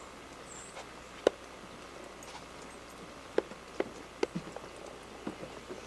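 A few separate sharp clicks and snaps at irregular intervals, the loudest about a second in, with others clustered in the back half. A faint high chirp comes near the start.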